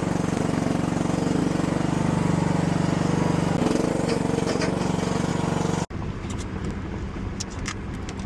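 An engine running steadily with an even, pulsing note. About six seconds in the sound cuts off abruptly to a rougher, lower rumble with a few sharp clicks.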